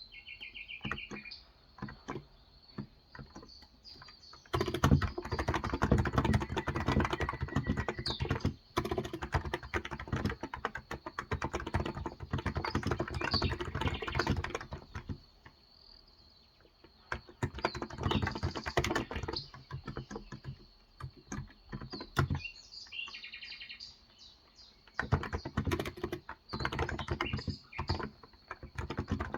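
Typing on a Cox Endeavour 35 g tenkeyless electro-capacitive keyboard: runs of rapid keystrokes in three long bursts, with pauses between them. A bird chirps briefly at the start and again about 23 seconds in.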